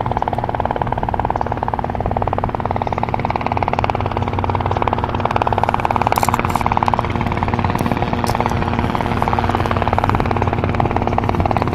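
Robinson R22 Beta II helicopter, with its Lycoming four-cylinder piston engine, running steadily in flight, its rotor giving a fast, even pulsing.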